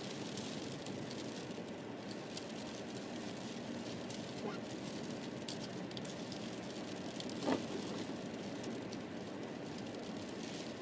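Steady road and engine noise inside a moving car, with light ticking of freezing rain and snow striking the car. A single brief knock about seven and a half seconds in.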